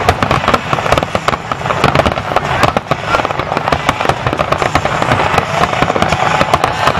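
Dense barrage of aerial fireworks shells bursting in rapid succession, many sharp bangs a second running together with crackling.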